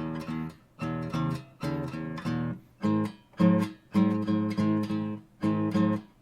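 Acoustic guitar, an Art & Lutherie Wild Cherry, played as rhythmic strummed chords. Each chord is struck sharply and cut short before the next in a steady pattern.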